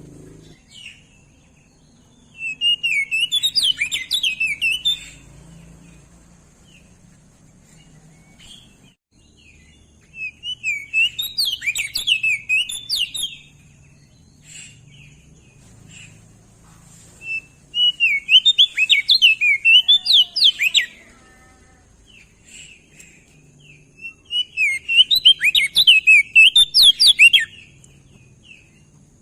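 Crested white-eye (opior jambul) singing four bursts of rapid, varied high chirps, each about three seconds long, with pauses of about four seconds between them.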